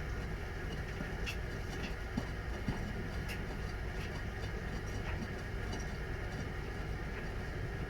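Washing machine running a wash cycle: a steady low drum and motor rumble, with a few light clicks scattered through it.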